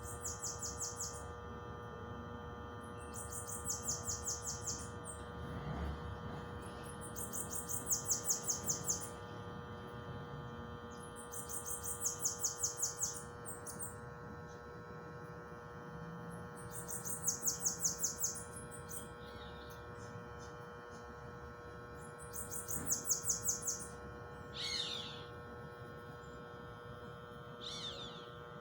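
Bananaquit singing: a high, rapid run of notes lasting about a second, repeated every four to five seconds, over a steady hum. Two short falling calls come near the end.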